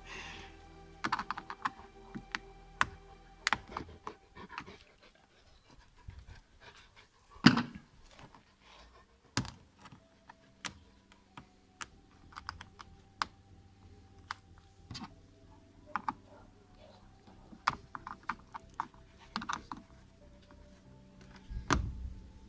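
Irregular clicks and taps of car interior trim parts and fasteners being worked loose by hand, with one louder thunk about seven and a half seconds in.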